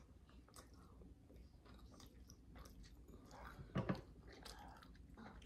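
Faint mouth sounds of a person chewing pizza: soft wet clicks and smacks, with one short, louder mouth sound a little before four seconds in.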